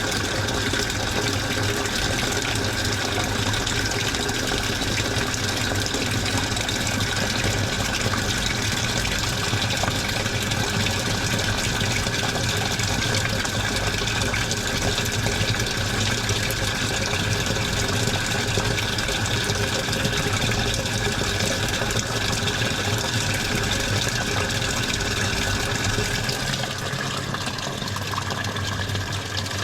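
Washing machine filling with water: a steady rush of water pouring into the drum over a low hum, turning a little quieter and duller near the end.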